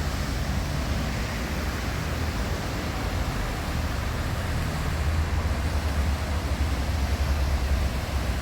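Outdoor city street ambience: a steady low rumble with a hiss over it, swelling a little in the second half.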